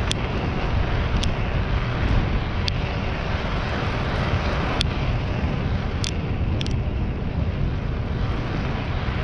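Wind rush and low rumble on the microphone, with tyre and road noise, from a bicycle coasting downhill at about 16 to 18 miles per hour. A few short sharp ticks come at irregular moments.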